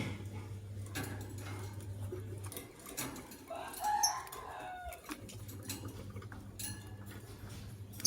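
Lovebirds giving short, sharp chirps, with a lower, longer call about three and a half seconds in, over a steady low hum that drops out for a few seconds in the middle.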